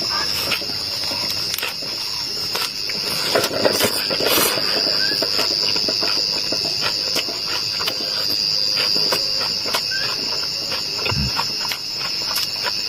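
Insects trilling in one steady, high, unbroken note, with scattered small clicks and knocks throughout.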